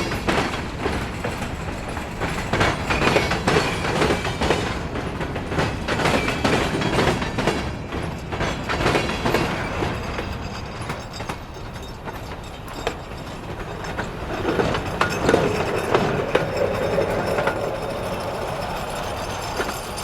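Railroad cars rolling past, their steel wheels clacking over rail joints in a steady run of clicks over a continuous rumble.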